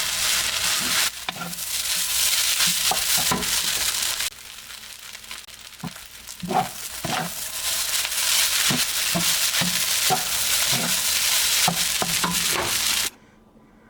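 Food sizzling in a hot frying pan while being stirred, with frequent short scrapes and knocks of a utensil against the pan. The sizzle drops lower for a couple of seconds about four seconds in, then comes back, and cuts off suddenly near the end.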